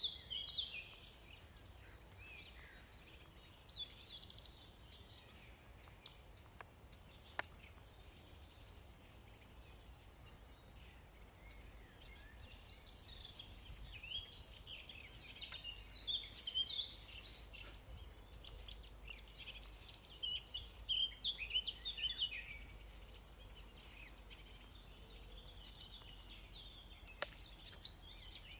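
Several small songbirds chirping and singing in quick, overlapping phrases, busiest in the middle, over a steady low hum of city background noise.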